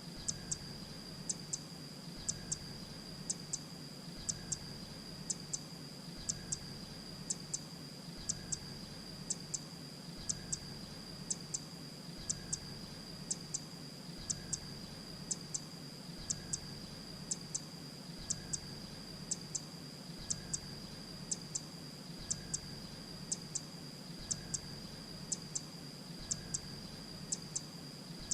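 Grey-breasted prinia calling: short, high double notes repeated about once a second in an even, looped pattern, over a steady high tone.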